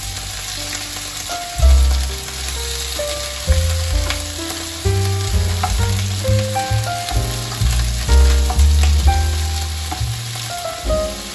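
Long beans sizzling as they are stir-fried and turned with a spatula in a hot pan. Background music with a melody and bass notes plays over the sizzle.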